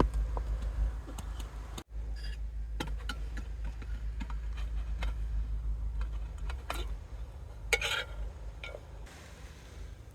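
Low steady rumble with scattered faint clicks and crackles, and one louder crunch about eight seconds in.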